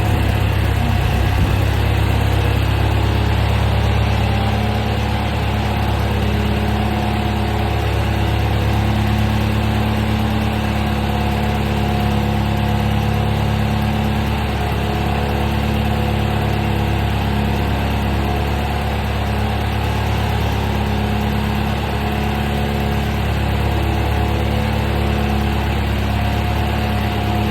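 1969 John Deere 2520's four-cylinder gasoline engine running steadily at an even speed.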